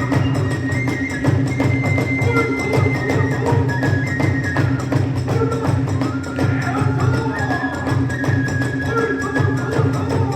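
Kagura hayashi ensemble playing: a bamboo flute carries a high, stepping melody over fast, continuous drum beats and clashing small hand cymbals.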